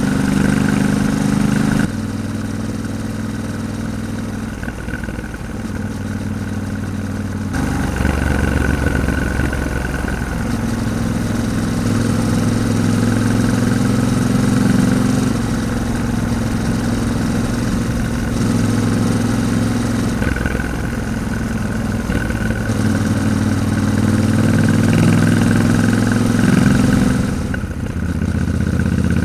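Yamaha Ténéré 700's parallel-twin engine running under way, its pitch stepping up and down several times as the revs change through gear changes.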